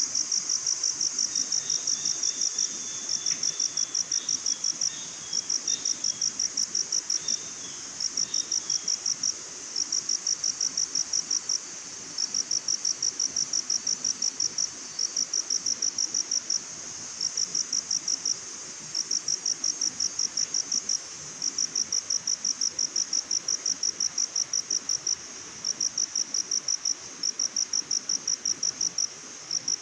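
Cricket chirping in fast, high-pitched pulse trains, each lasting about a second and a half with short pauses between, over a fainter steady insect hum.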